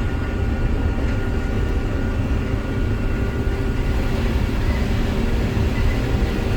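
Combine harvester running steadily while harvesting corn, heard from inside the cab: a constant low rumble with faint steady machine tones above it.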